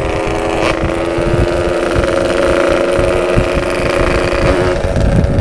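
Yamaha RX-King two-stroke single-cylinder engine through an aftermarket 'setengah dewa' exhaust, running at a steady note while the bike cruises, easing off near the end. A low rumble of wind on the microphone runs beneath it.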